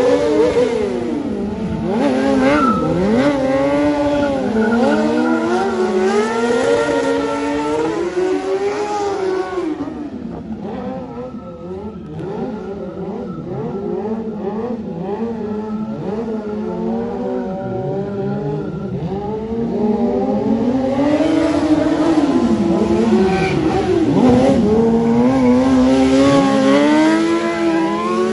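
Stunt motorcycle engine revving up and down over and over as the rider performs, with a hiss of tyre noise. It falls quieter for a stretch in the middle, then picks back up.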